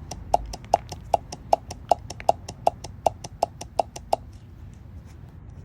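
Old heater blower motor and fan from a Toyota Tacoma clicking in a regular rhythm, about two to three sharp clicks a second with fainter ones between, stopping about four seconds in. The owner thinks this fault is the cause of the crunching noise when the heater is turned on.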